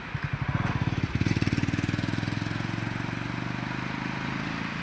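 A vehicle engine running with a rapid, even firing beat, a little quieter after about two seconds.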